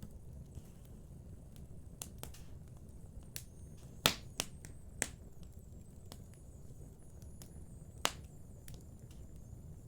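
Wood fire burning in a fireplace: a low steady rumble with irregular sharp crackles and pops from the burning logs, the loudest pops about four and eight seconds in.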